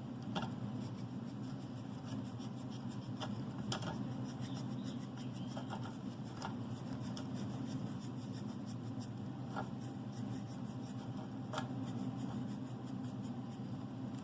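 Paintbrush stroking matte acrylic paint onto a 3D-printed plastic bust: faint, irregular scratchy brushing with light ticks, over a steady low hum.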